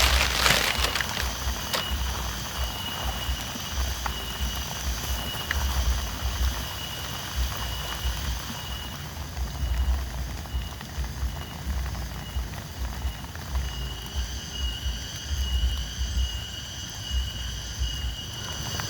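Steady rain falling, with a high, pulsing chorus running through it and an uneven low rumble underneath.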